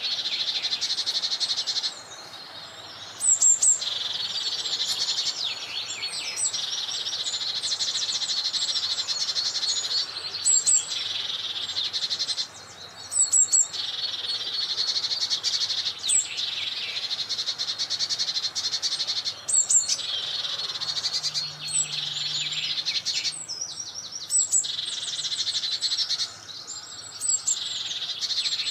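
Birds singing: a continuous high, rapid trilling that breaks off briefly a few times, with sharp high chirps every few seconds.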